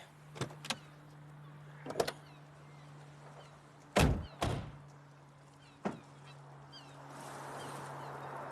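A handful of short thuds and knocks, the loudest about four seconds in with another just after, over a faint steady hum; a soft hiss builds near the end.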